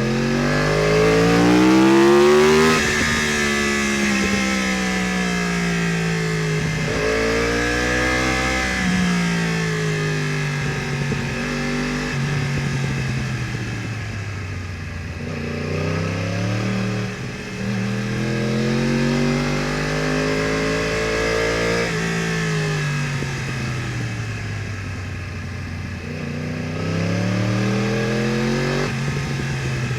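2015 Yamaha R1's crossplane inline-four through a full Akrapovič exhaust, accelerating and easing off again and again through bends, its pitch climbing and falling about five times.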